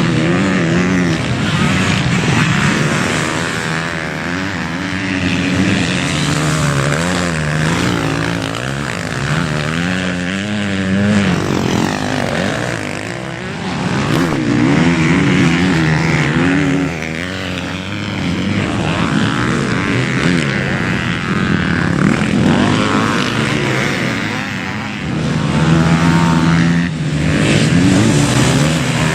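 Motocross bike engines revving hard, their pitch climbing and falling over and over as the bikes accelerate and shut off around the track.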